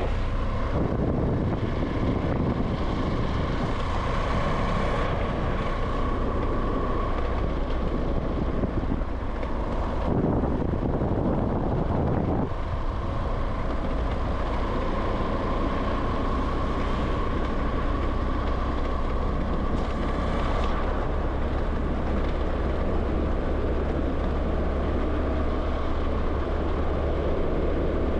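Steady road noise of a vehicle being driven along a highway: engine and tyre rumble with some wind, and a faint whine that rises and falls in pitch. About ten seconds in, the noise briefly changes into a louder rush for a couple of seconds.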